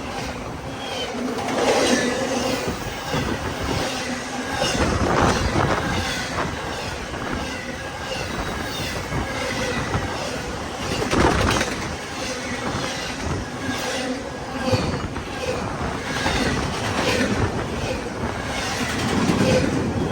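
CSX intermodal freight train's cars rolling past, their wheels clacking repeatedly over the rail joints with a continuous rumble of the train.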